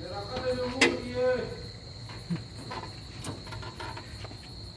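Crickets chirping in a steady high trill, with faint distant voices and a sharp knock in the first second and a half.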